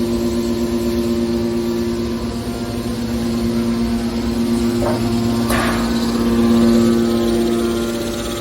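Aluminium can baler's hydraulic power unit running with a steady hum, and two short clanks from the machine about five seconds in.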